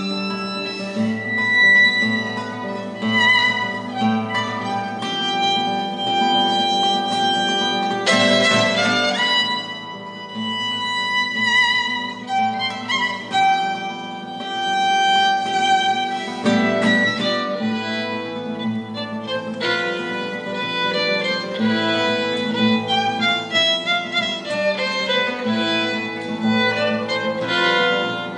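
Chamber orchestra string section playing, with violins carrying sustained melody notes over lower strings.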